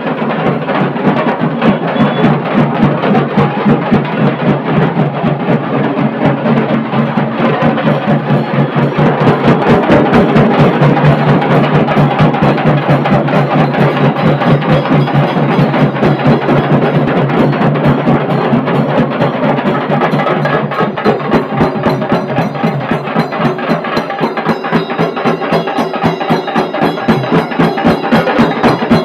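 Dhol and tasha drum ensemble playing loud and fast: a dense, unbroken stream of rapid, sharp tasha stick strokes over the drums' beat.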